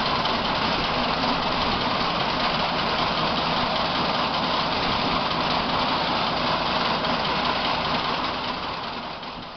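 Tractor engine running steadily while driving a mounted wheat reaper; the sound fades out near the end.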